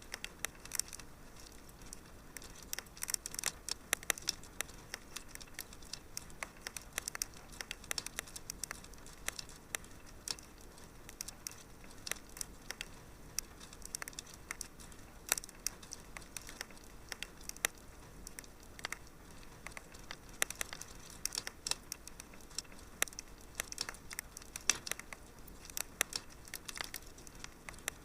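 Wood fire in a fireplace crackling and popping steadily, with many small sharp snaps at irregular intervals over a low, even hiss.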